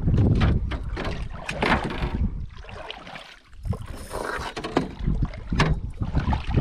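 Wind rumbling on the microphone over water lapping at a small jon boat, with scattered knocks and clicks of gear against the boat.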